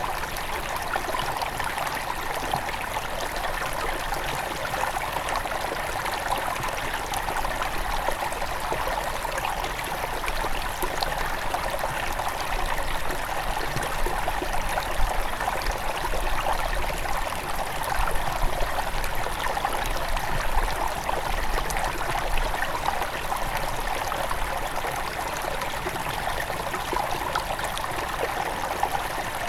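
Shallow headwater stream flowing over stones: a steady, even rush of water with many small splashes and trickles.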